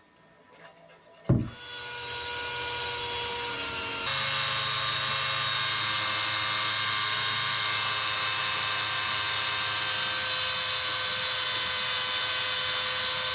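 Bosch GSR 12 VE-2 12 V cordless drill starting up about a second in and running steadily at speed, its tone shifting once about four seconds in.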